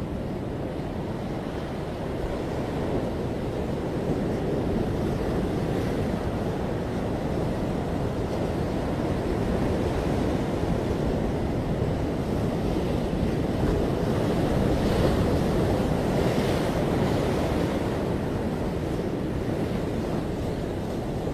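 Ocean waves breaking and washing on a beach, a steady surf rush that swells slowly and peaks about two-thirds of the way through, with some wind on the microphone.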